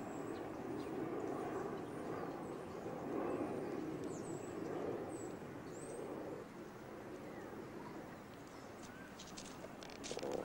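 Birds calling: a few short, high chirps, some gliding in pitch, over steady low background noise, with a run of sharp clicks near the end.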